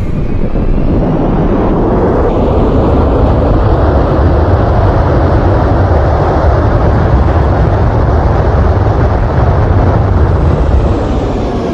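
Airplane engines roaring as an aircraft passes low and close; the roar swells in the first second and falls away near the end.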